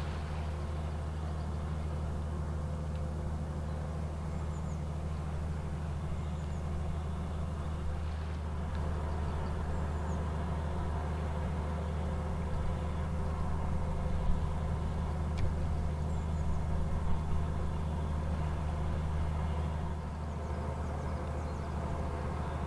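Inland cargo ship's diesel engine running steadily: a low, even drone with a few fainter higher tones. It swells a little past the middle, then eases.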